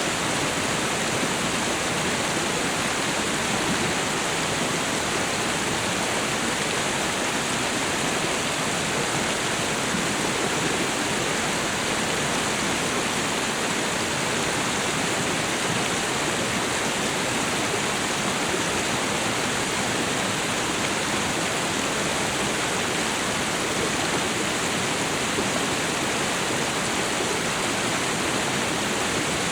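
Waterfall and river water rushing, a steady, even roar of falling and flowing water with no breaks.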